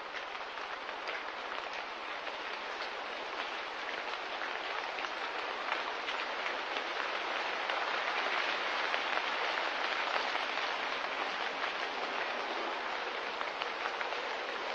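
Steady patter of light rain, an even hiss dotted with fine drop ticks, slowly swelling louder.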